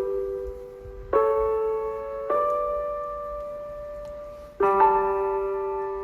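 Background piano music: slow, sustained chords struck about once every one to two seconds, each ringing and fading before the next.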